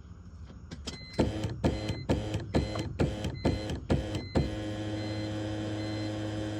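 BMW E46's M54 engine being cranked by the starter without firing: a string of about eight rhythmic pulses, about two a second, then a steady whirr for about three seconds that cuts off, with no catch. The car has a crank-but-no-start fault.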